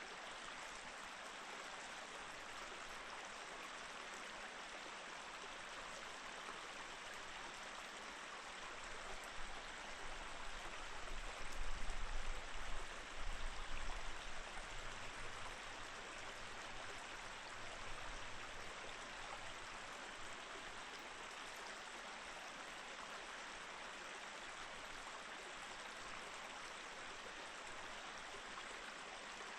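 Mountain stream flowing steadily over rocks, an even rush of water. For several seconds in the middle a low rumble swells up and is the loudest thing, then fades back.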